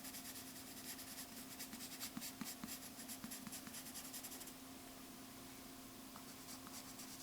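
Rapid back-and-forth drawing strokes scratching on paper as an area is shaded in. The strokes are dense for the first half and lighter after about four and a half seconds, over a faint steady hum.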